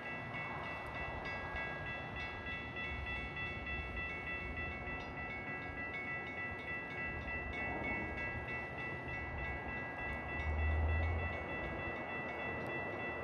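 Metra commuter train sounds: a steady high-pitched metallic squeal in several pitches that come and go, over a low rumble that swells briefly near the end.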